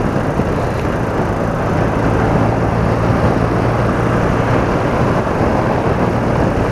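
BMW R80RT motorcycle on the move in traffic: steady wind and road rush over its air-cooled flat-twin engine, with a steady low engine hum coming through in the middle seconds.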